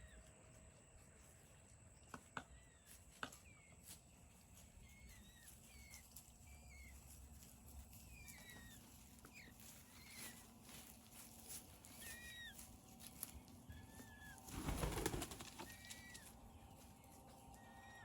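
A peafowl's wings flapping in one short, loud burst about fifteen seconds in as it flies up to roost, over repeated short, falling chirps from small songbirds.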